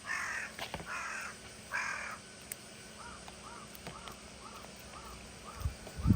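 A crow cawing three harsh times, then a quieter run of short, evenly spaced notes about twice a second. A low rumbling thump comes in near the end.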